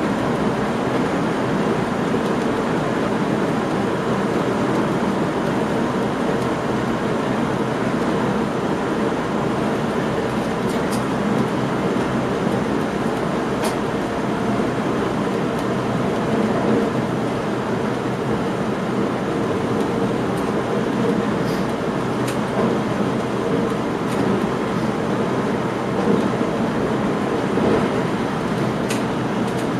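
Train running along the line, heard from inside the driver's cab: a steady rumble with a few faint ticks.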